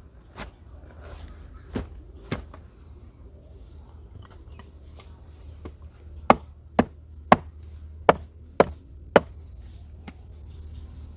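A blade chopping into wood: a few scattered sharp blows, then a steady run of six strikes about two a second.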